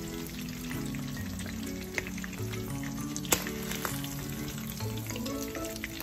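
Pieces of canned sardine sizzling and crackling in hot oil in a nonstick wok, with a sharp click about three seconds in. Soft background music with held low notes plays under the frying.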